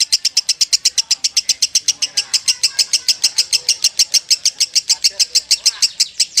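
Lovebird's long, unbroken chattering trill: sharp high chirps repeated about ten a second without a pause, the nonstop 'kekean' song that keepers call konslet.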